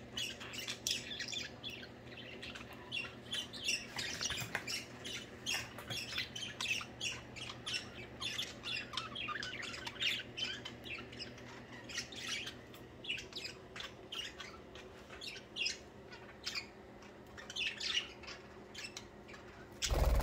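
A flock of budgerigars chattering: many quick overlapping squawks and chirps with no pause. A short loud bump near the end.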